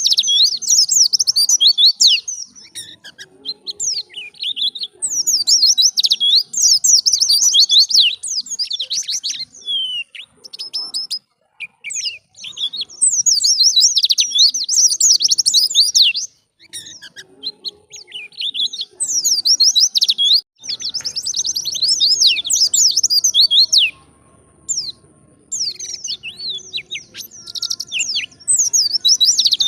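White-eye (pleci) singing a fast, high twittering song in repeated bursts of a few seconds, with short pauses between them, in the wild-style 'ngalas' manner.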